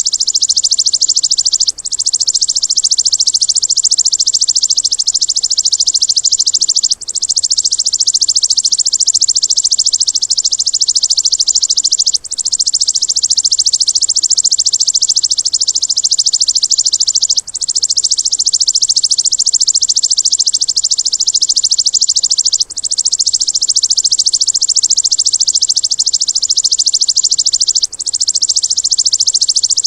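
Bird's rapid, high-pitched buzzing trill of 'tembakan' song-training material, running in stretches of about five seconds, each cut by a brief break, evenly repeating like a loop.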